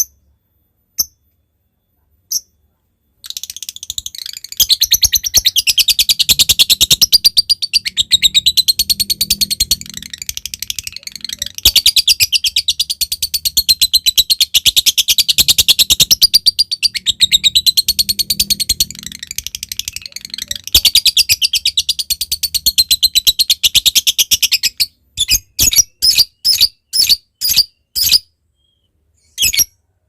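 A lovebird gives a long, very rapid chattering trill (the 'ngekek'), a dense run of tightly spaced high notes that wavers in pitch, lasting about twenty seconds with two brief breaks. Near the end it switches to a string of separate sharp chirps, two or three a second.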